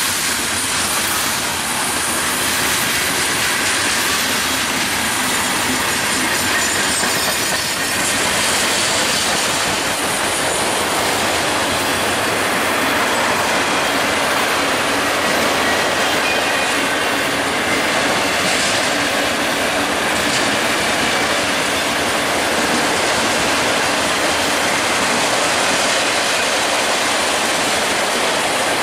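Freight train cars (gondolas, autoracks and boxcars) rolling past at steady speed: a continuous, even noise of steel wheels on rail.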